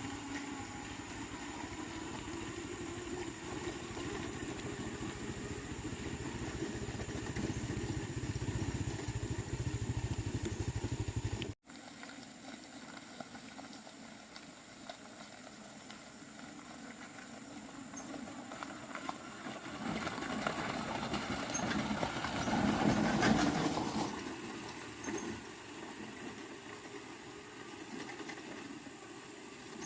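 An engine running steadily, cut off abruptly about a third of the way through. A quieter mechanical sound follows, building to a louder swell a little over two-thirds through and then easing off.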